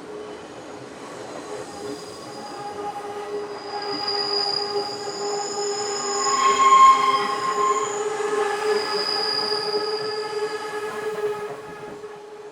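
Hanshin Railway train running with a metallic wheel squeal: several steady high tones that build, are loudest about seven seconds in, and fade near the end.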